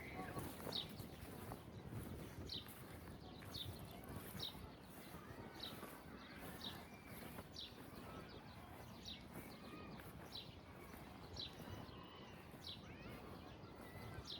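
A bird repeating a short, high, downward-sliding call about once a second, over a low, even background hiss.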